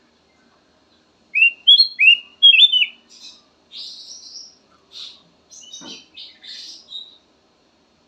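Kutilang emas bulbul singing: a quick run of four or five loud, clear, rising whistled notes, then a softer, scratchier chatter of higher notes that stops about seven seconds in.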